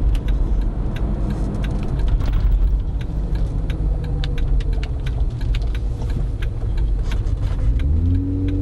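Jeep Wrangler JKU driving with an aFe Mach Force-XP cat-back hi-tuck exhaust: a steady low engine and exhaust rumble with a deeper, bassier tone, and light clicks and rattles throughout. The engine note climbs a little near the end.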